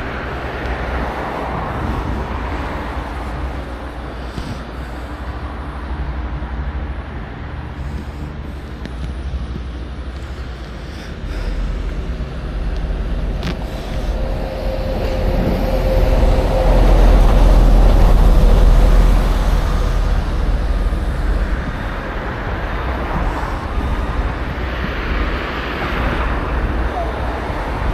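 Road traffic passing steadily, with several vehicles going by in swells. The loudest pass is a heavy rumble about two-thirds of the way through.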